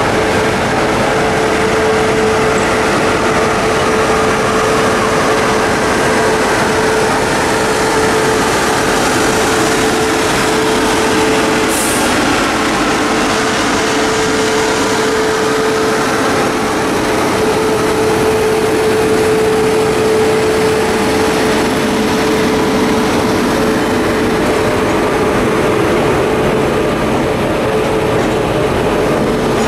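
Indian Railways WAP-7 electric locomotive and its Rajdhani train pulling slowly out along a station platform. It makes a steady loud running noise with one constant tone held throughout, and a brief high hiss near the middle.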